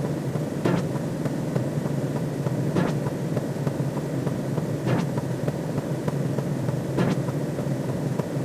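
A steady low noisy drone, a synthetic sci-fi-style ambience, with a faint click about every two seconds.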